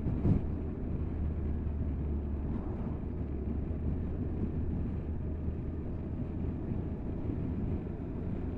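Steady wind and road noise over the low hum of a Triumph Tiger 1200's three-cylinder engine while riding along, with a short knock just after the start.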